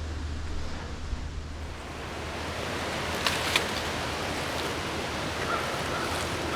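Strong wind rushing steadily through the trees, with wind buffeting the microphone as a low rumble in the first second or so. Two sharp clicks about halfway through.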